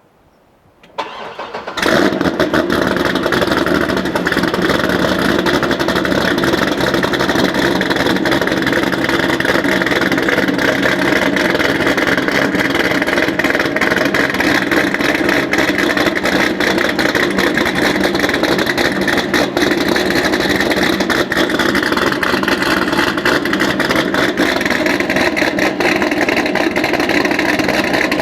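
2006 Corvette Z06's 7.0-litre LS7 V8, breathing through long-tube headers, an X-pipe and a Corsa exhaust with no catalytic converters, cranks briefly and fires about two seconds in on a cold start. It then settles into a loud, steady cold idle.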